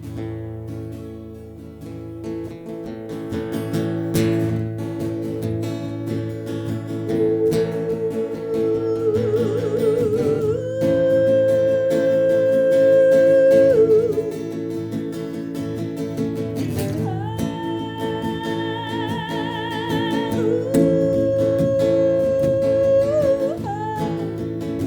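Instrumental introduction to a Celtic folk song, played on acoustic guitar. About seven seconds in, a wordless melody line enters over it in long held notes with vibrato.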